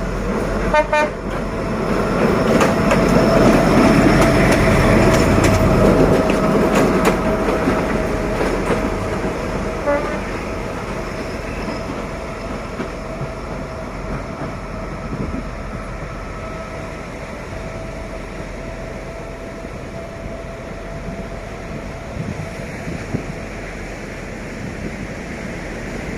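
D11H diesel locomotive running past, loudest a few seconds in and then easing off. There is a quick series of short horn toots about a second in and another brief toot near ten seconds.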